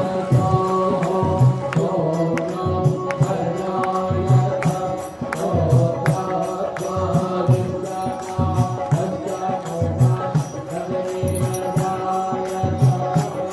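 Devotional mantra chanting set to music, with held tones, a pulsing bass beat and sharp ticks at a steady pace.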